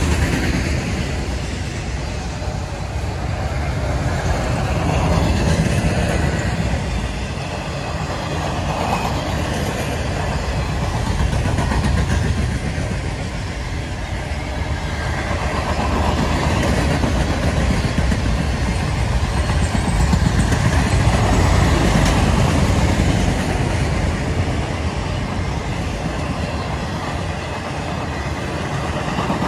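Cars of a Norfolk Southern mixed freight train (autoracks, boxcars, flatcars) rolling past at speed: a steady rumble of steel wheels on rail that swells and eases every several seconds as the cars go by.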